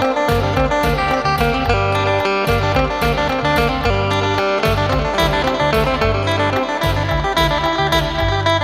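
Electric phin, the Isan Thai lute, playing a plucked melody over a backing track with a bass line and a steady drum beat.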